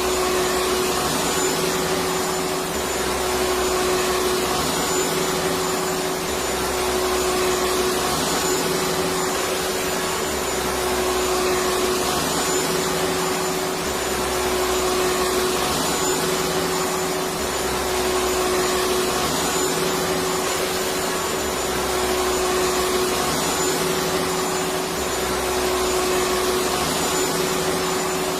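Electric vacuum cleaner running continuously, a steady motor whine over an even rush of air, with a faint low throb repeating about every two and a half seconds.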